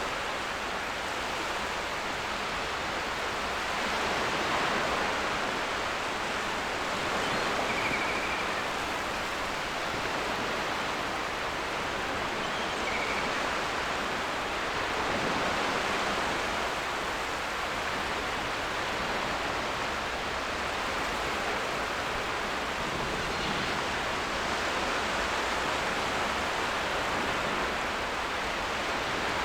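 Ocean surf washing onto a beach in slow swells a few seconds apart, a steady hiss of breaking water. A couple of brief, faint seagull calls sound over it about a third of the way in.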